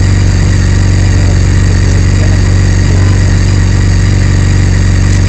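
BMW K1600's inline-six engine idling steadily.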